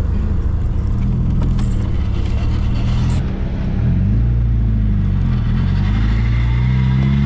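Small open-top MG Midget's engine running as the car drives. Its pitch drops about three seconds in, as at a gear change, then rises steadily as the car accelerates.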